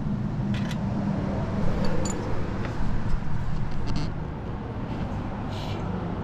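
A steady low mechanical hum, with a few light clicks and taps of metal being handled.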